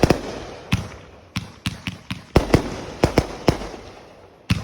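Fireworks going off: about a dozen sharp bangs at irregular intervals, some close together in quick pairs, each dying away quickly.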